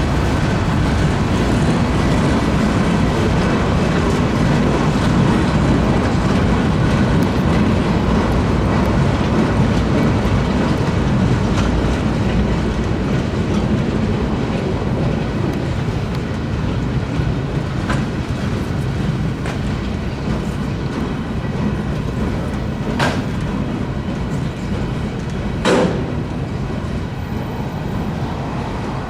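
Freight cars of a CSX manifest train rolling through a grade crossing: a steady rumble of steel wheels on the rails with clickety-clack over the joints. Two sharp knocks come near the end, the second louder.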